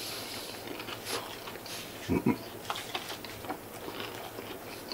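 Close-up crunchy chewing of a crisp, potato-starch-coated fried chicken karaage piece, with a short low voiced hum about two seconds in.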